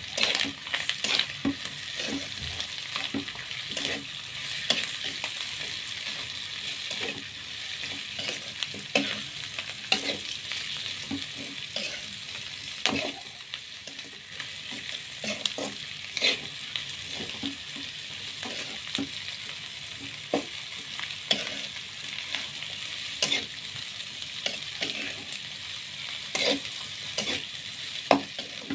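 Anchovies and sliced chilies frying with a steady sizzle in a metal wok, stirred and turned with a metal spatula that scrapes and knocks against the pan at irregular intervals.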